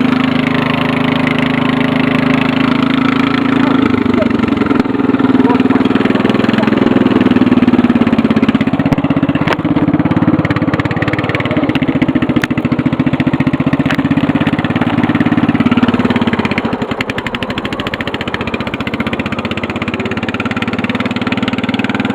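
Murray riding lawn mower's engine running as it drives through deep snow. It revs up about four seconds in, holds there, then drops back to a lower, quieter speed about sixteen seconds in.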